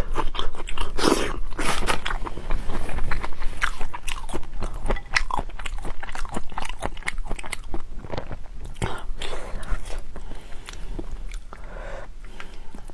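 Chewing and biting of raw liquor-marinated black tiger prawns, with crunching and many quick, irregular clicks.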